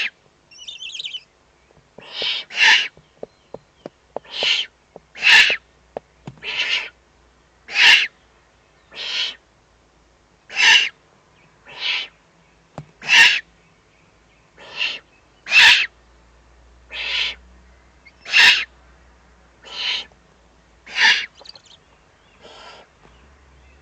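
Eurasian eagle-owl nestlings giving rasping begging calls at feeding, repeated steadily about once every second and a half. A few faint clicks sound early on.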